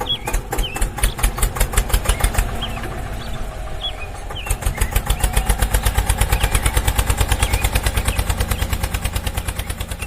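Small engine of a DIY mini tractor running with an even putt-putt beat of several pulses a second, easing off about two and a half seconds in and picking up faster again about two seconds later. Birds chirp in the background.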